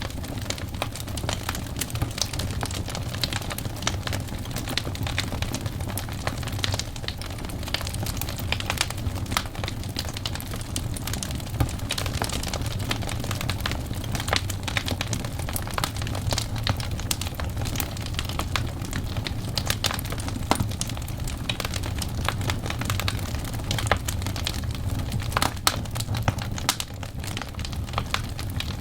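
Burning wood logs crackling, with many irregular sharp snaps and pops over a steady low rumble of the fire.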